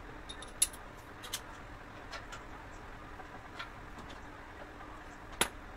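Scattered sharp clicks and light taps from handling tools and parts, the loudest about five seconds in, over a faint steady hum.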